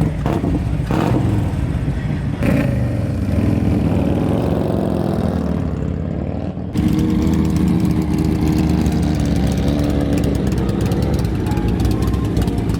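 Motorcycle engine running, its sound changing abruptly and getting louder about halfway through.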